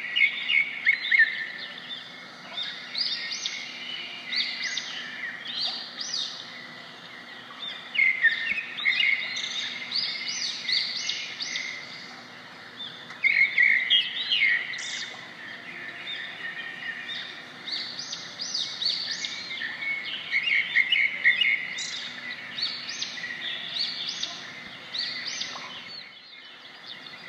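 Small birds chirping and singing in clusters of quick, high chirps and trills over a faint steady background, with a short lull near the end.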